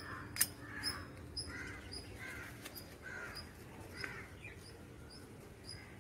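A bird calling over and over, about once a second, dying away after about four and a half seconds, with faint high chirps between the calls. A single sharp click about half a second in.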